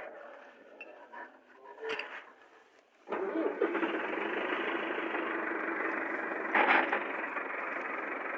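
Millat tractor's diesel engine starting about three seconds in and then running steadily, with a brief louder surge a little later.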